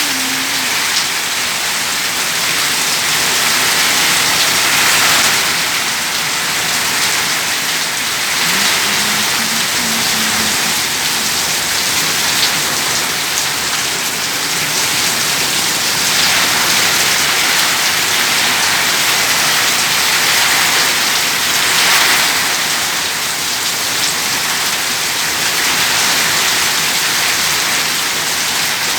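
Heavy rain pouring down in a thunderstorm: a dense, steady hiss that swells and eases every few seconds.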